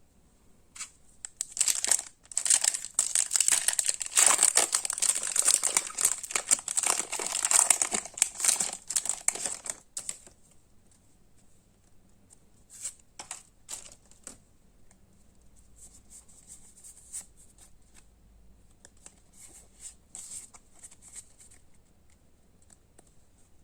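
Foil wrapper of a Pokémon trading card booster pack being torn open and crinkled for about eight seconds. It then drops to a few softer, scattered crinkles and clicks.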